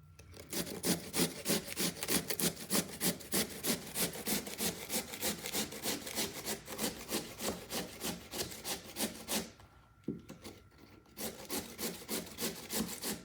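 Raw potato being grated by hand on a metal grater: quick, even rasping strokes, about four or five a second. The strokes pause about nine and a half seconds in, then start again.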